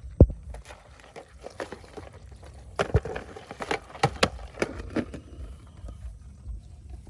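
Irregular knocks and clicks over a low rumble: one hard thump just after the start, then a busy run of sharp knocks from about three to five seconds in.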